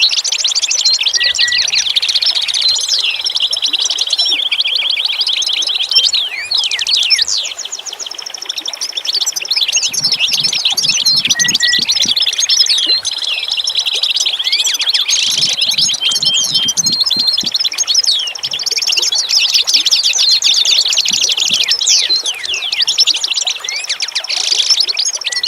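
A dense chorus of many songbirds chirping, trilling and singing over one another without a break. Twice near the middle, a low, rapid pulsing runs for about two seconds beneath the birds.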